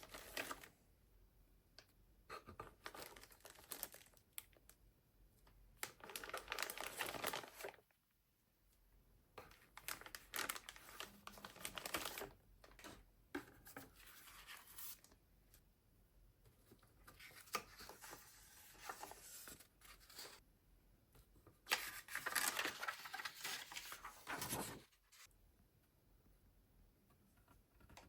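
Plastic packaging of a model kit crinkling and rustling in several bursts as it is handled and torn open, with small scratches and clicks between.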